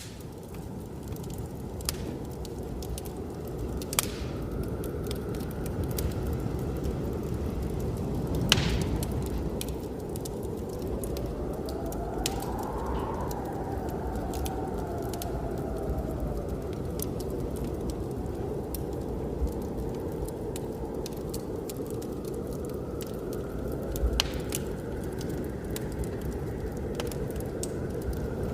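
Fireplace fire crackling, with scattered sharp pops, the loudest about a third of the way in, over the steady rush of blizzard wind. Around the middle, a wind howl rises and then falls away.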